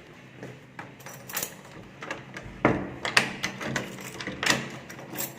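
Knocks and clicks of a door and household things being handled, with several sharp knocks in the second half.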